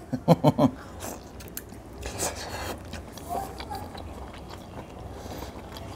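A person biting into and chewing a chicken leg piece in curry gravy, eaten from the hand: soft, irregular eating sounds.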